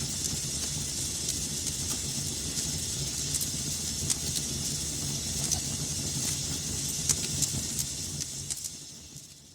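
Wood fire crackling in a fireplace: a steady hiss and low rumble of burning with sharp pops scattered every second or so. It fades out near the end.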